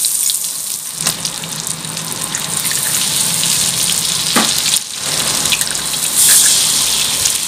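Butter sizzling in a hot wok, then eggs cracked in and frying, the sizzle getting louder about six seconds in as more eggs go in.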